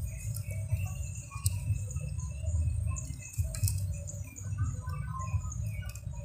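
Outdoor ambience: small birds chirping over a steady low rumble, with a few faint clicks.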